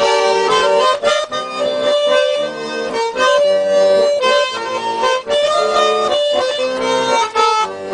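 Garmon, a Russian button accordion, playing a lively instrumental melody over chords.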